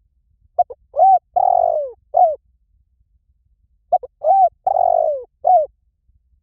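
Spotted dove cooing: two identical phrases about three seconds apart, each a quick stuttered note, then a longer coo and a drawn-out falling coo, ending with a short final note.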